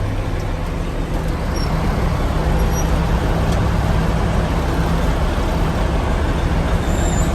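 Semi truck's engine running steadily, with a constant low hum.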